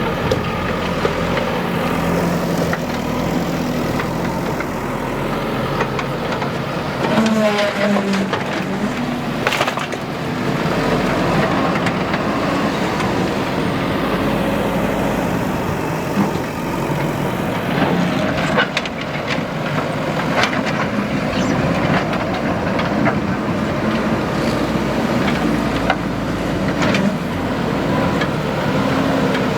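Diesel engine of a JCB 3DX backhoe loader running steadily under working load, with scattered knocks and clanks from the machine at work, bunched around a quarter and two-thirds of the way through.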